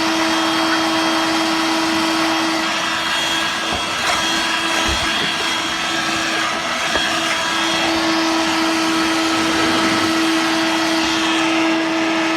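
A Dirt Devil Vibe corded stick vacuum, used as a handheld, runs steadily with a constant motor whine over the rush of its suction as it picks up cat litter. A few faint knocks come about four to five seconds in.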